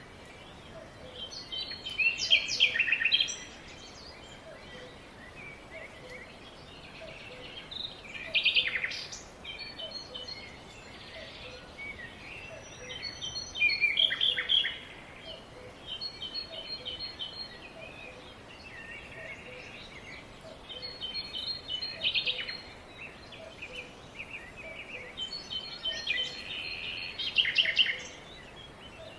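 Songbirds singing in the forest: short bursts of chirps and trills every few seconds over a steady background hiss, with a faint low note repeating about once a second underneath.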